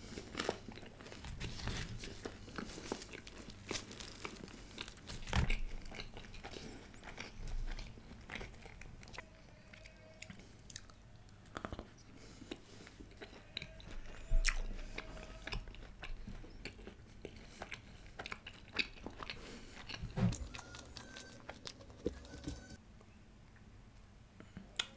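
Close-miked chewing of flatbread with curry: wet mouth sounds and irregular small clicks, a few louder ones about five, twelve, fourteen and twenty seconds in.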